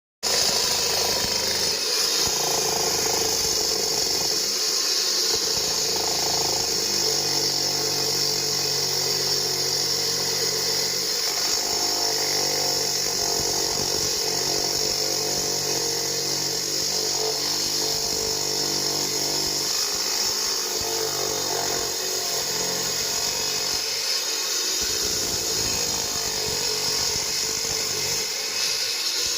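Concrete cutting saw running continuously as it cuts concrete, with a steady high-pitched whine over a lower motor tone that shifts in pitch now and then.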